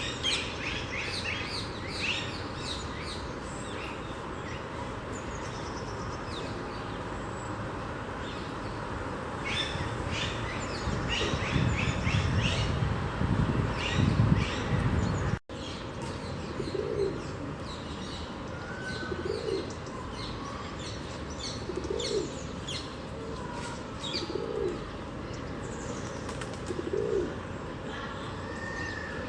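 Small birds chirping with many short high notes, with a stretch of low rumbling near the middle. Then a dove cooing: a low call repeated about every two and a half seconds, over fainter chirps.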